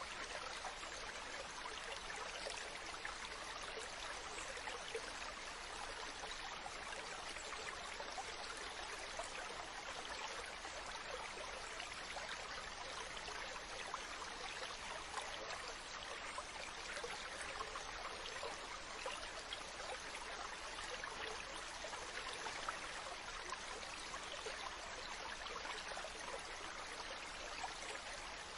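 Mountain stream running: steady rushing and babbling of water over rocks.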